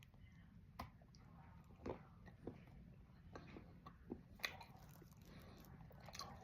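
Faint chewing and mouth clicks of someone eating a chocolate peanut butter cup, heard as a scattering of soft, separate clicks over several seconds.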